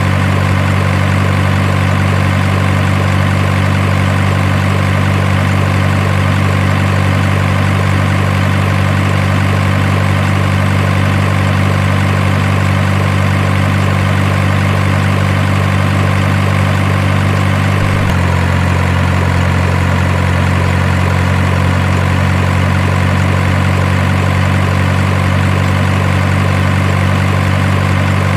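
Heavy truck engine idling steadily with a deep, even rumble. About eighteen seconds in it shifts abruptly to a slightly different idle and then holds steady again.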